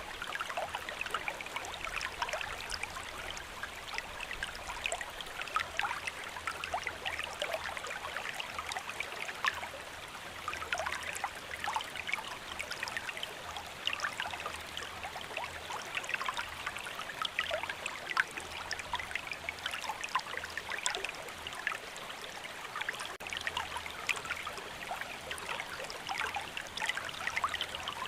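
Steady rain falling, a dense, even hiss filled with many small drop sounds and a trickling, running-water quality.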